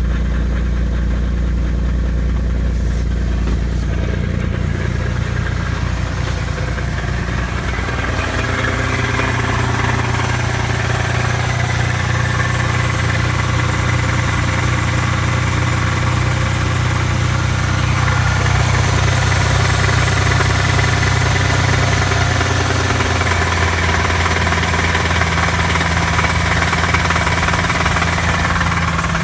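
Chevy Camaro V6 engine running just after a cold start, with a heavy knock from the bottom end: rod knock, the sign of a failing engine. The engine note shifts up about eight seconds in and changes again near the end.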